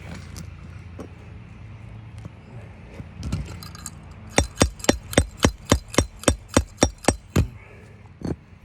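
A hammer tapping metal about a dozen times in a quick, even run of roughly four strikes a second, working at a shingle nail stuck fast in roofing tar. A single knock comes before and after the run.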